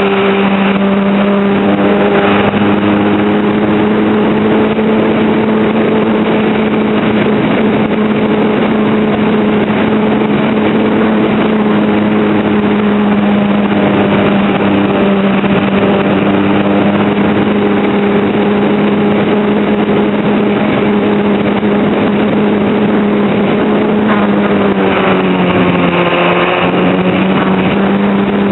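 RC model plane's motor and propeller droning steadily over a constant rushing noise, its pitch dipping briefly and recovering near the end.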